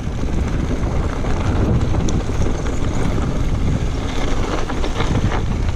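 Wind rushing over the microphone as a mountain bike rolls down a dirt singletrack trail, with tyre noise and scattered clicks and rattles from the bike.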